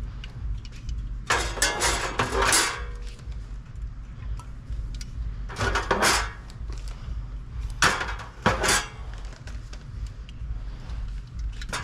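Drinks clinking and clattering against each other and the machine as they are loaded into a vending machine's columns, in three short bursts, over a steady low hum.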